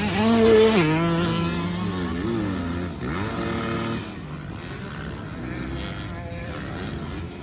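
Dirt bike engine revving on a motocross track: the pitch climbs, drops sharply just before one second in as the rider shifts or shuts off, then wavers up and down with the throttle before fading.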